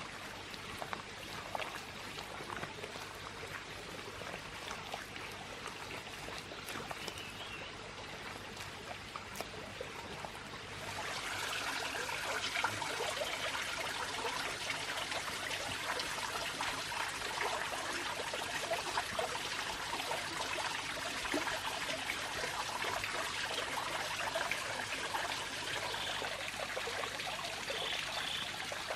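Running water trickling steadily, becoming louder about eleven seconds in.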